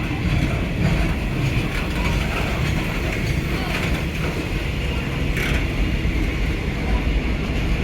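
Passenger train carriage running, heard from inside: a steady low rumble with light rattling and clicking from the car's fittings.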